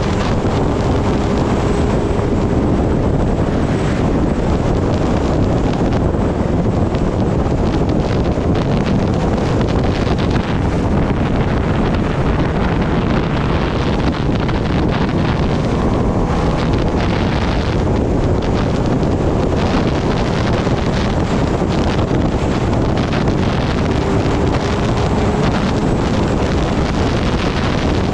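Heavy, steady wind rushing over the microphone of a motorcycle at riding speed, with the Kawasaki Ninja ZX-10R's engine faintly audible beneath it.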